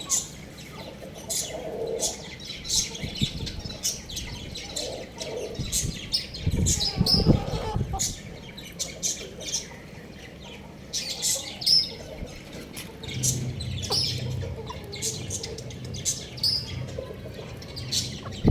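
Young chickens chirping in many short, high peeps, with a louder low thump about seven seconds in.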